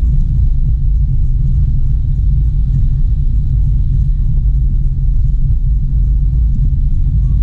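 Steady low rumble of a car driving, road and engine noise with no change in pace.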